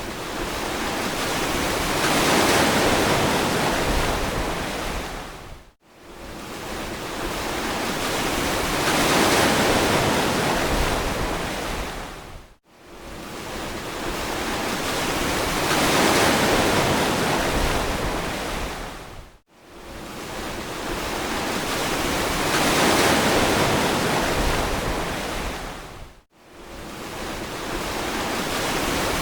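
Ocean surf washing on a beach, each wave swelling and fading over about seven seconds. A brief cut-out separates each wave from the next, four times here, as in a short recording looped over and over.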